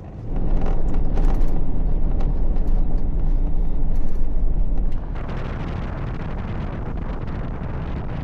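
Pickup truck with a truck camper driving on a dirt road: a low rumble with scattered rattles and clicks. About five seconds in it changes abruptly to a quieter, steady road hiss.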